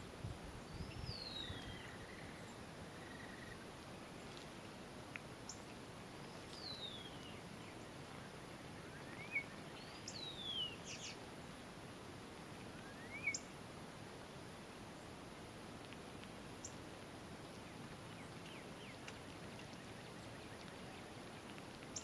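Birds chirping now and then over a steady faint background hiss: a few thin falling whistles and short rising calls, spread over the first two thirds, with a couple of tiny ticks.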